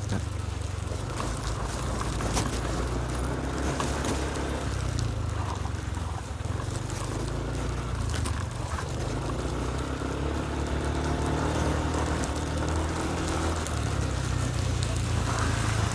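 Steady wind rumble and road noise while riding a Yamaha N-MAX scooter, with the engine running underneath at cruising speed.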